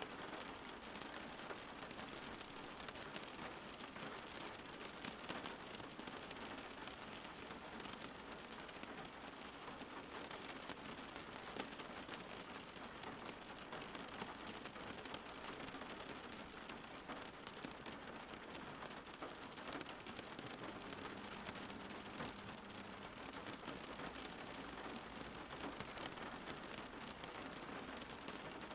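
Steady rain falling: an even hiss with many small drops pattering on a surface.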